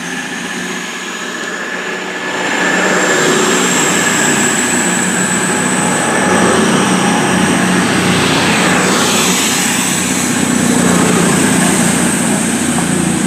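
Class 221 Super Voyager diesel-electric unit pulling away, its underfloor Cummins diesel engines running hard with a high whine that slowly rises in pitch. The sound gets louder about two and a half seconds in.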